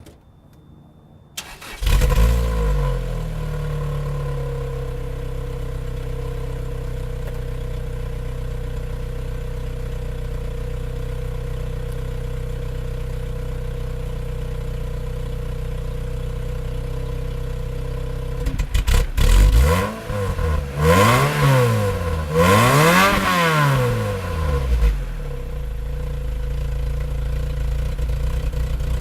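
Lotus Elise engine breathing through an HKS aftermarket exhaust: it starts about a second and a half in, flares briefly, then idles steadily. After about 18 seconds it is blipped and revved several times in quick succession, the pitch rising and falling with each rev, before dropping back to idle.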